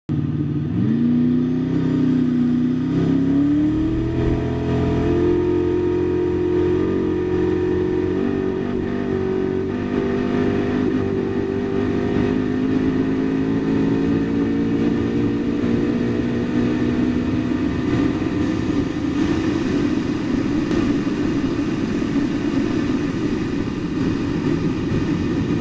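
Koenigsegg Regera's twin-turbo V8 under full-throttle acceleration, its note climbing quickly at first and then rising slowly and unbroken, with no gear changes, since the car drives its wheels directly with no gearbox. A steady rush of wind and tyre noise runs under it.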